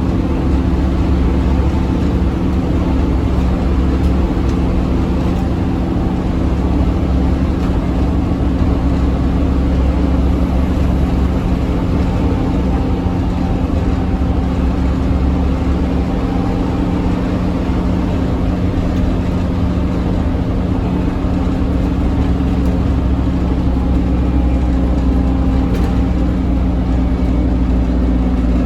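Scania OmniCity double-decker bus running at fairly steady engine revs, a loud low rumble with a steady drone over it.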